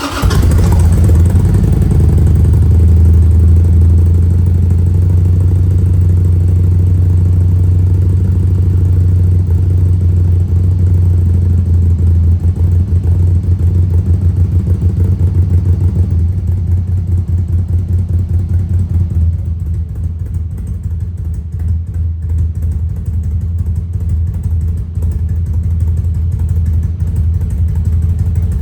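2002 Harley-Davidson Sportster 883's air-cooled V-twin running through an unbaffled open exhaust, with a deep, steady rumble. It drops slightly in level about two-thirds of the way through.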